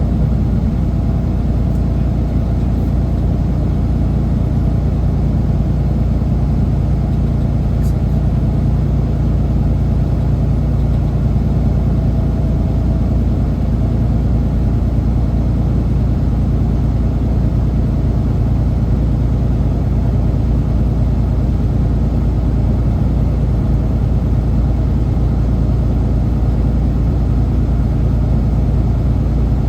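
Semi truck's diesel engine running steadily, a low, even drone that holds without change.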